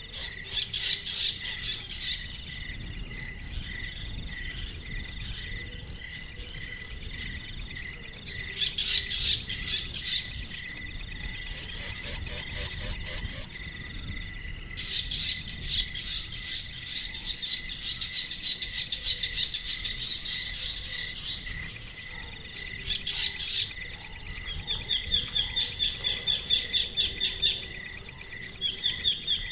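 Crickets chirping in a steady pulsing rhythm, about two to three chirps a second, with brief bird chirps and calls breaking in now and then.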